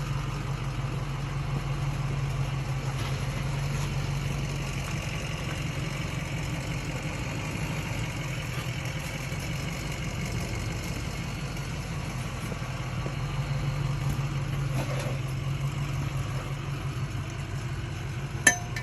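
Steady low mechanical hum of a motor running, with one sharp click or clink shortly before the end.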